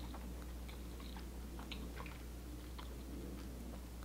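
A person chewing a mouthful of palabok noodles topped with crunchy chicharron bits: small, irregular wet clicks and crunches, with a steady low hum behind.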